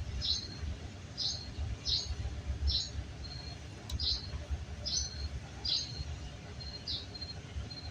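A small bird calling a short, high chirp over and over, roughly every three-quarters of a second, with a faint low rumble underneath.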